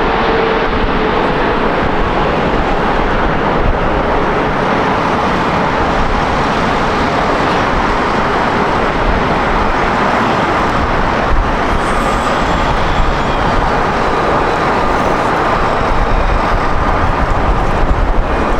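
Jet airliner engine noise, a loud steady rush, with a faint whine coming in about halfway through.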